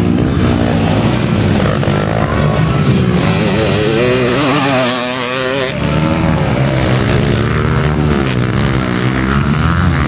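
Several motocross motorcycle engines revving, their pitch rising and falling over and over as the bikes accelerate and shift, with a short, slightly quieter stretch about five seconds in.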